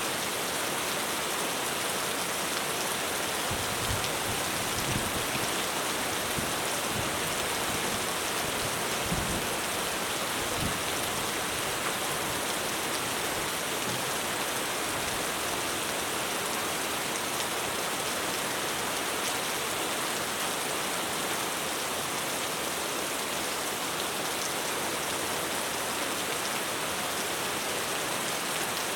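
Heavy rain drumming steadily on a roof, an even dense hiss of drops, with a few brief low rumbles about four to ten seconds in.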